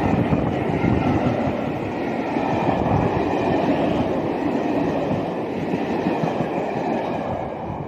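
Steam-hauled train with 5043 Earl of Mount Edgcumbe at its head running past at speed, a steady rumble and clatter of wheels on the rails that eases slightly near the end.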